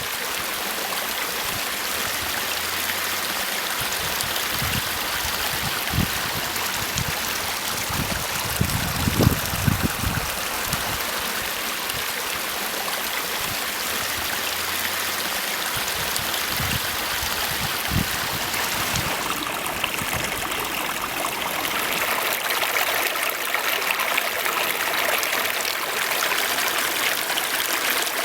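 Water of a pondless waterfall splashing and trickling over rocks in a steady rush. A few low thumps come about nine seconds in, and the splashing grows a little brighter in the last third.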